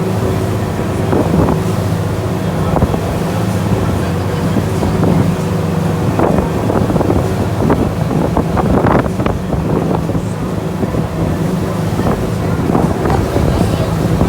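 Tour boat's engine running steadily under way, with wind buffeting the microphone and short irregular splashes of water.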